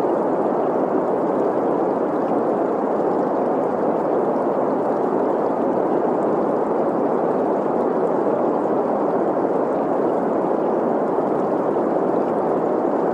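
Steady green noise, a hiss centred in the middle of the range, blended with a flowing stream; it does not change.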